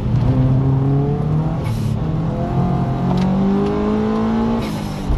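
Subaru Impreza's turbocharged engine heard from inside the cabin, accelerating hard through the gears. The revs climb, drop at an upshift a little under two seconds in, climb again and drop at a second shift near the end. Each shift comes with a short hiss.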